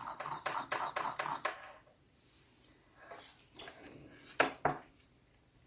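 Soldering iron tip being jabbed into a brass wire sponge, quick scratchy strokes about five a second, stopping after a second and a half. Two sharp clicks near the end.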